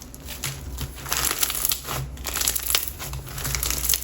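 Milky clear slime packed with silica beads being squeezed and pressed by hand, giving a dense, irregular crunchy crackle of many small pops, busier and louder from about a second in.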